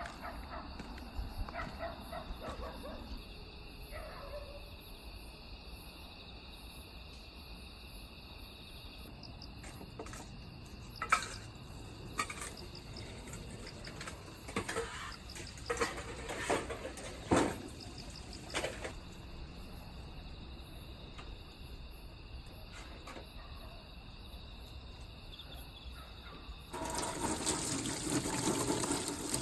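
A few scattered knocks and clacks over quiet background with faint steady high tones. Then, near the end, water starts running from a tap, suddenly and loudly, and keeps running.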